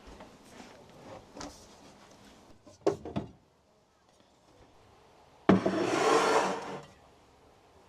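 Knocks and rubbing from handling in the caravan, then water from the caravan's tap rushing out in a loud burst of about a second, starting suddenly about five and a half seconds in.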